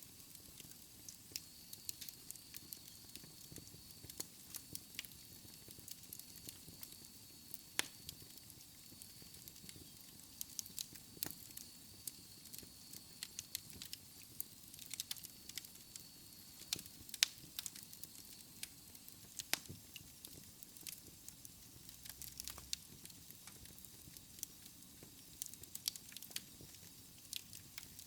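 Wood fire burning in a fireplace, crackling with irregular sharp pops of varying loudness over a soft low rush of flames.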